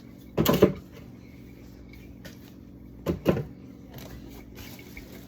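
Two short bursts of knocking and clattering, about half a second in and about three seconds in, as containers are handled and moved about in an open refrigerator.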